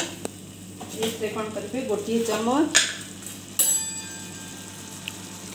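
Wooden spatula stirring ginger-garlic paste frying in butter and oil in a nonstick kadai, with a faint sizzle. A voice speaks briefly in the middle, and about three and a half seconds in a sharp metallic clink rings on for about two seconds.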